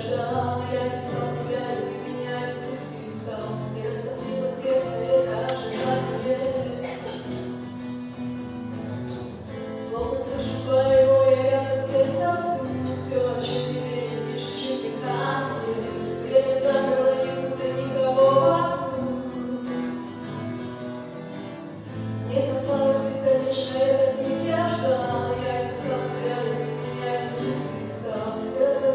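A church choir singing a Christian hymn in Russian, with held, slow-moving sung notes over a sustained low accompaniment.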